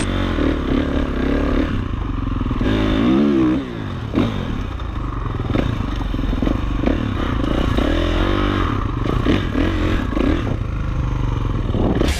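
Dirt bike engine revving under riding, its pitch rising and falling again and again as the rider opens and closes the throttle.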